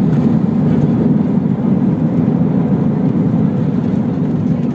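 Airbus A319 airliner heard from inside the cabin during landing rollout: a loud, steady rumble of engines and runway noise that eases slightly toward the end as the aircraft slows.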